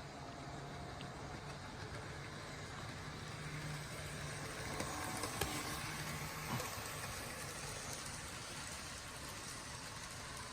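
N scale model locomotive running on its track: a steady motor hum, with a couple of sharp clicks near the middle.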